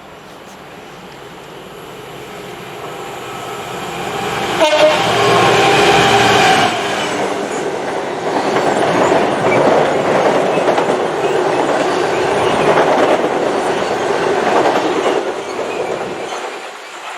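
A train approaches, sounds its horn in one blast of about two seconds, then passes close by with loud rushing and wheel-on-rail clatter that falls away near the end.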